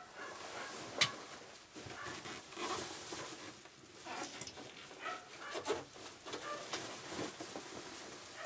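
Irregular handling noises of work setting up an air conditioner for cleaning: rustling and scattered light clicks and knocks, with one sharp click about a second in.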